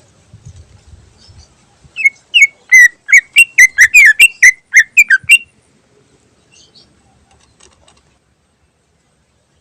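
Green leafbird (cucak ijo) singing: a quick run of loud, sharp whistled notes, about four or five a second, starting about two seconds in and stopping after some three seconds.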